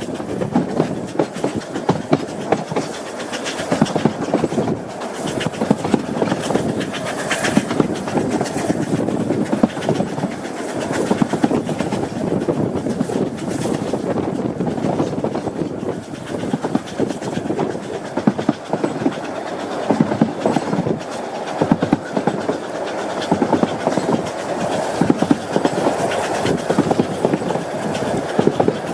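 Steam train, Isle of Man Railway locomotive No. 15 Caledonia, labouring up a gradient at walking pace, with irregular sharp beats over a continuous rumble; the locomotive is struggling for adhesion on greasy rails.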